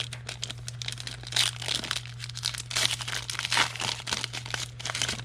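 Foil trading-card pack wrapper being torn open and crinkled, a rapid irregular crackling.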